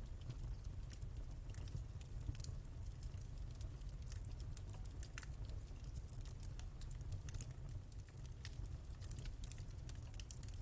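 Wood fire in a fireplace crackling, with many small irregular pops and snaps over a steady low rumble of flame.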